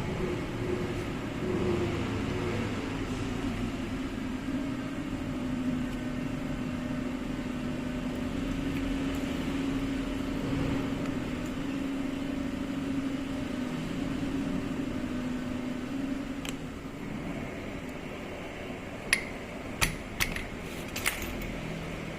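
A steady machine hum, with four short sharp clicks near the end.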